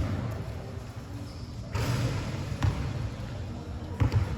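A basketball bouncing on a court during play: a few separate thuds, the first right at the start and two close together about four seconds in, with a short rushing noise in between.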